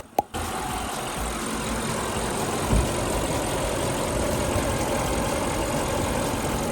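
2015 Audi RS7's twin-turbo 4.0-litre V8 idling steadily, with a dull thump about three seconds in.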